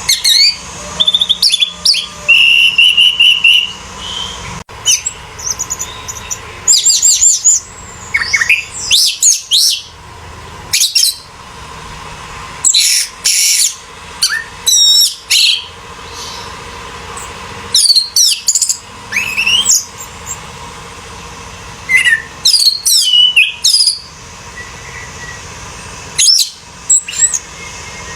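Orange-headed thrush (anis merah) singing in bursts of fast, varied whistled and warbling phrases with short pauses between them.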